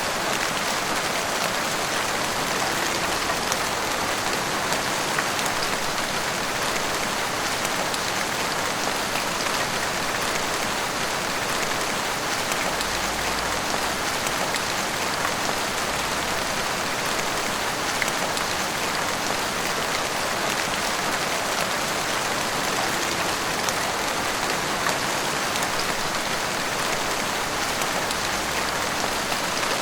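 Heavy rain falling steadily, a dense even hiss of drops pattering on surfaces, with fine scattered drop ticks.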